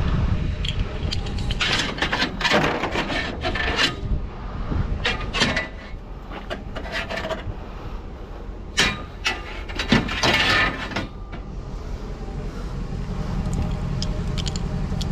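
Things being handled, scraping and knocking in several bouts, with the loudest near the start and again about nine to eleven seconds in, over a low steady rumble.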